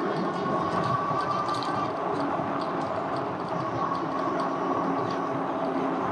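Lectric e-bike riding along: a steady motor whine over tyre and road noise, with light rattling.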